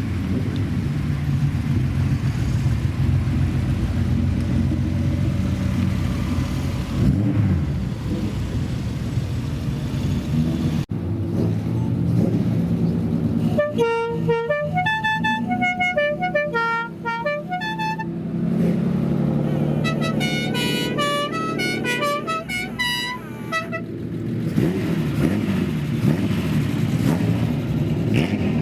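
Customized old cars' engines rumbling. A multi-note musical horn plays quick stepping tunes in two runs around the middle.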